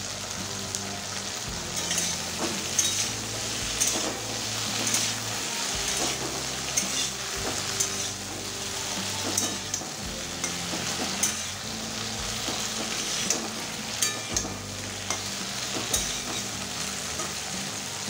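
Cut okra sizzling as it fries in mustard oil in a kadai, nearly done, with a metal spatula scraping and tapping the pan about once a second as the pieces are turned.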